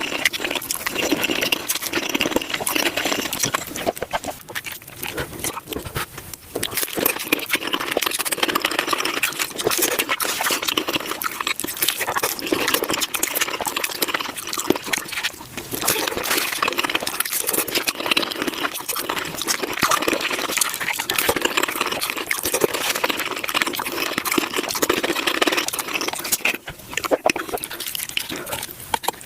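Close-miked chewing and crunching of tacos, sped up to five times normal speed, so that bites and chews run together into a dense, fast crackle with short lulls.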